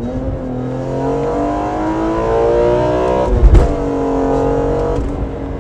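BMW E46 M3's 3.2-litre S54 straight-six, through a Borla exhaust and heard from inside the cabin, revving up under acceleration. About three and a half seconds in, a sharp crack and thump comes as the SMG gearbox, set to its hardest mode, shifts up. The revs then climb again from lower and ease off near the end.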